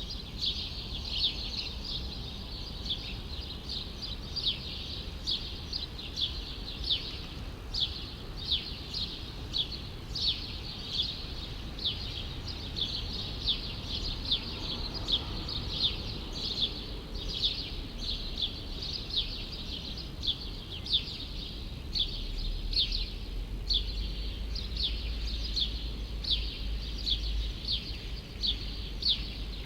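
A small bird chirping over and over in short, sharp notes, about two a second, without a break. A low rumble of city noise sits underneath and swells for a few seconds past the middle.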